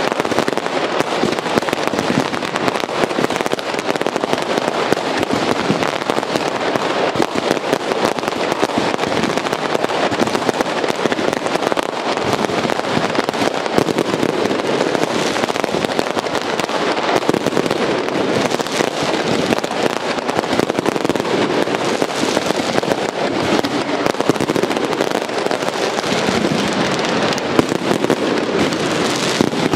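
Aerial fireworks launching and bursting overhead in a dense, unbroken barrage of rapid bangs and crackles with no pause.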